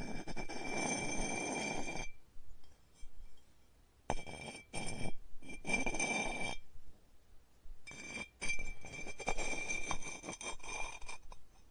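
A tool scraping against clay in three strokes lasting a few seconds each, with short pauses between them. A steady high whine sounds with each stroke.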